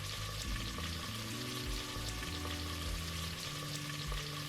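Chopped vegetables sizzling in hot oil in a pressure cooker, a steady frying hiss.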